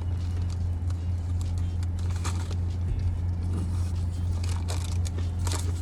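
A person chewing food, with a few short crunches, over a steady low hum.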